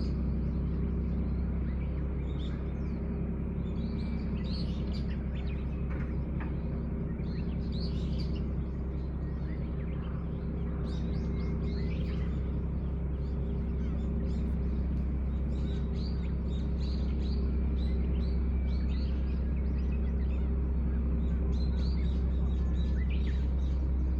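Small birds chirping and twittering on and off, over a steady low drone.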